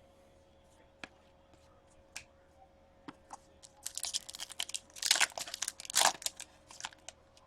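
Hockey card pack wrapper crinkling and tearing as it is handled and opened, a few light clicks at first, then dense crinkling from about four seconds in with two louder bursts.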